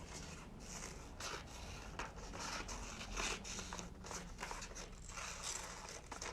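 Scissors cutting a small oval out of construction paper, in a string of short snips with paper rustling.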